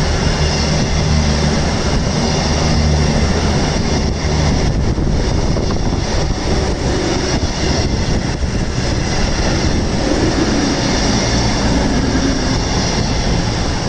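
Passenger train passing close by: a steady low engine drone over the first few seconds fades, leaving a loud rushing of wheels on rail.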